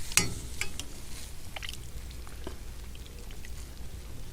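Burning firewood crackling, with irregular sharp snaps and pops a few times a second over a low steady rumble. The loudest snap comes just after the start.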